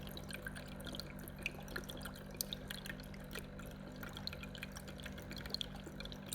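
Water dripping and trickling in scattered small drops, over a faint steady low hum.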